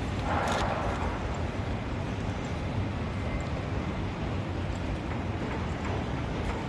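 Steady low rumble of outdoor city background noise, with a brief hiss about half a second in.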